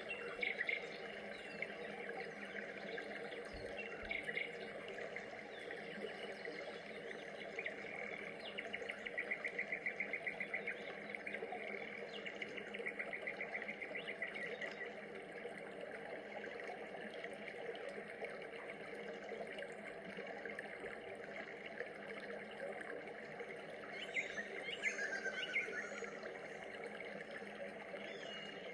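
Rainforest ambience: a steady chorus of insects and birds. A rapid pulsing trill runs from about 8 to 15 seconds in, and a few sweeping calls, one falling in pitch, come near the end.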